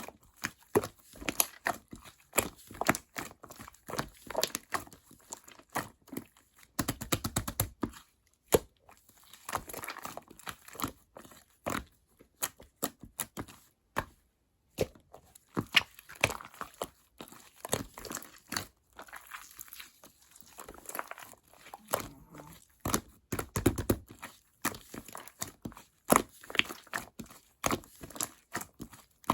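White slime being squeezed, stretched and poked by hand, giving a constant irregular run of small sticky clicks and pops, with a deeper squelch twice.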